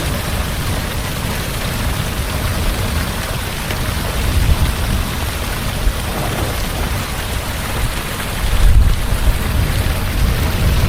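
Heavy rain falling steadily, with low thunder rumbling about four seconds in and a louder roll of thunder near nine seconds.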